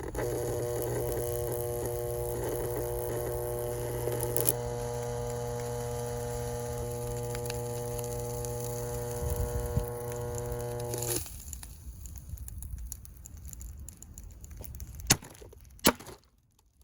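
Vintage Tatung 16-inch table fan's AC motor buzzing steadily under power as it burns out, then cutting off suddenly about eleven seconds in. A couple of sharp knocks follow near the end.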